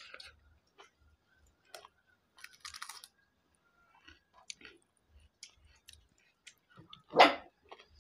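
Close-up chewing and eating noises: boiled fish and rice eaten by hand, with scattered small clicks and soft rustles. A single short, much louder sound about seven seconds in.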